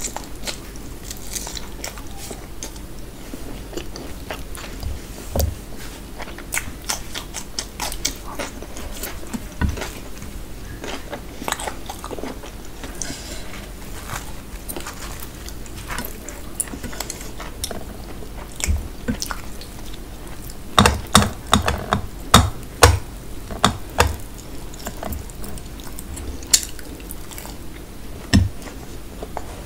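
Close-up chewing and biting of puri and mutton curry, with wet mouth clicks and the light crackle of puri torn by hand. A run of louder clicks and knocks comes about two-thirds of the way in.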